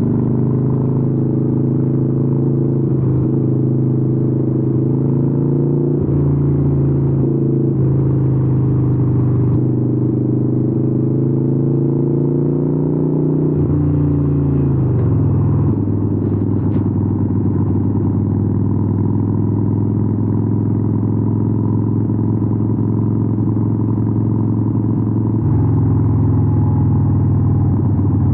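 Air-cooled 883 cc V-twin of a Harley-Davidson Sportster 883N running through Vance & Hines exhausts while riding. The engine speed shifts up and down a few times, drops about halfway through as the bike slows, then holds steady before picking up again near the end.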